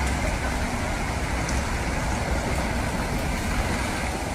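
Steady road and engine noise of a moving car, with a strong low rumble.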